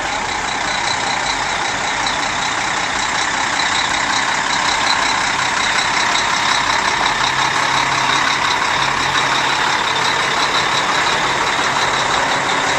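Mack dump truck's engine running steadily as the truck drives past, growing a little louder after about two seconds.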